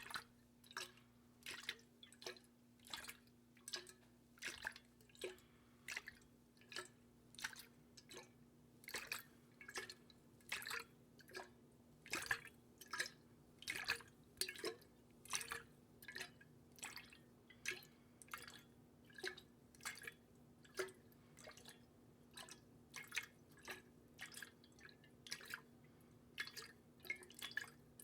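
Close-miked water dripping: short sharp drops and plops, irregularly about one or two a second, over a faint steady hum.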